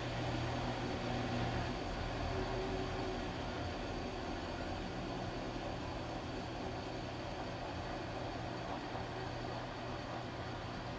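Washing machine running: a steady machine hum over an even noise, with a low drone that weakens about four seconds in.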